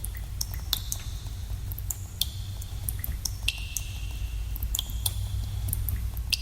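Water dripping in a cave: many irregular drops plinking into water, several leaving a brief high ringing note, over a steady low rumble.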